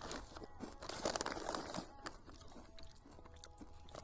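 Kettle-cooked potato chips being crunched and chewed, a dense crackle in the first two seconds that then thins to quieter chewing.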